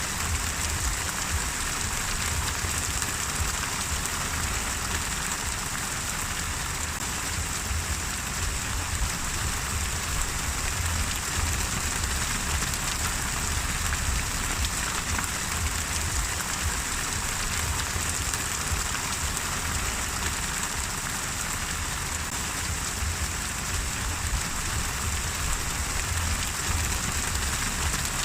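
Steady rain falling on a surface, an even hiss of many drops with no let-up and no thunder.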